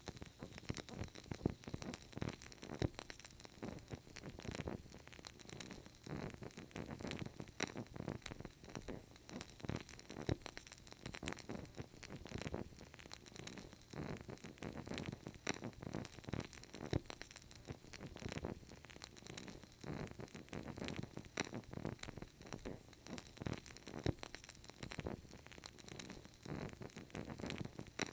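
Burning candle crackling faintly: a dense, irregular stream of small clicks and soft pops from the flame and wick.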